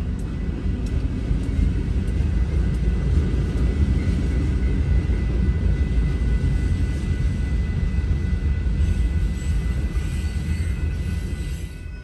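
Freight train rolling through a grade crossing: the deep rumble of BNSF diesel locomotives and then the steady rolling of loaded container cars, with a steady high tone that fits the crossing's warning bell. The rumble drops off near the end as the last cars pass.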